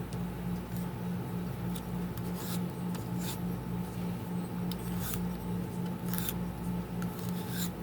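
A steady low hum that pulses evenly, with several short, sharp scratching or rustling sounds scattered through it.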